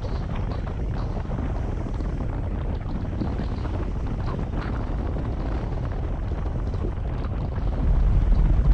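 Honda CB150X's single-cylinder engine running while riding, mixed with wind rumbling on the microphone; the low rumble grows louder near the end.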